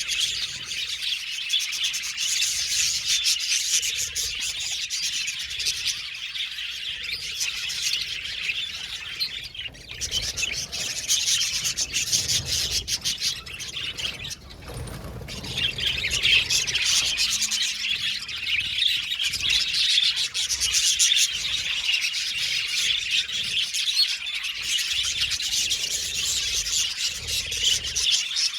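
A flock of budgerigars chattering and chirping in a dense, continuous, overlapping warble that thins out briefly twice, about ten and fifteen seconds in.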